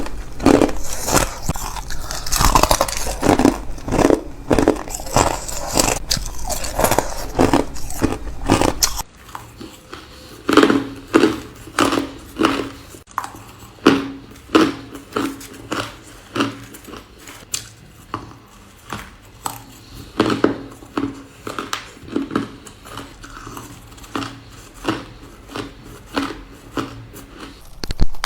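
Ice being bitten and chewed close to the microphone: repeated sharp, crackling crunches. They come thick and fast at first, then settle to about one or two crunches a second over a faint hum after the background changes about nine seconds in.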